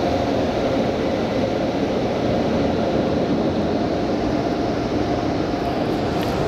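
Automatic car wash machinery running, heard from inside the car: a loud, steady rushing noise with a faint hum in it.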